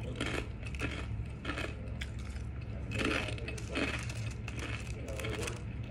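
Close-up chewing of crispy fried potato pieces: irregular crunches a few times a second, over a steady low hum.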